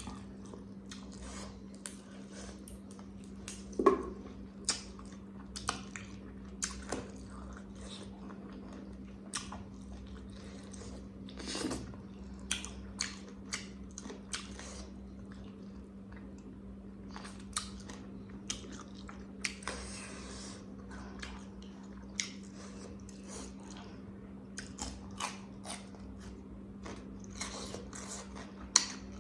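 A person eating close to the microphone: wet chewing and lip smacks with scattered sharp mouth clicks, at an irregular pace. A steady low hum runs underneath throughout, and there is a louder smack about four seconds in and another near the end.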